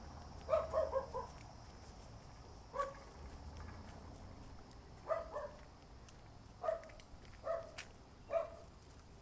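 A dog barking in short runs, about ten barks with pauses between, over a steady high insect drone.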